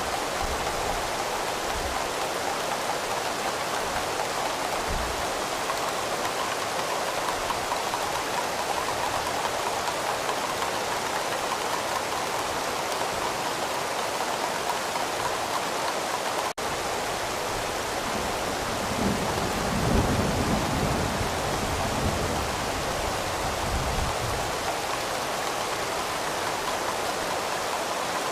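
Steady rain with a low rumble of distant thunder rolling in about two-thirds of the way through. The sound cuts out for an instant just past halfway.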